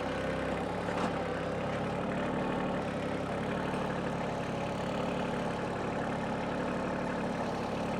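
Kioti CK2610 compact tractor's diesel engine running steadily.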